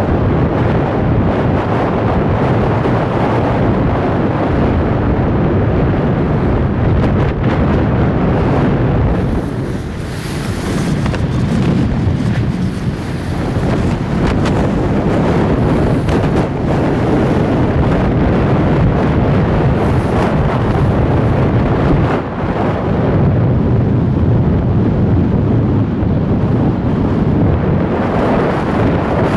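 Wind buffeting the microphone over the wash of the sea, steady and loud, easing for a few seconds about ten seconds in.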